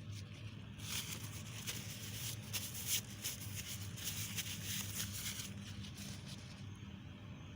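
Scratchy scraping and rustling made by hand work, dense for about four seconds and loudest near the middle, over a steady low electrical hum.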